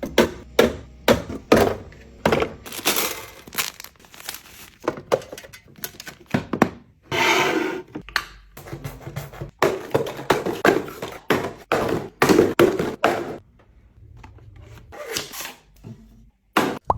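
Household items being handled and set down: a quick run of knocks and clunks, with a longer rustling hiss about seven seconds in.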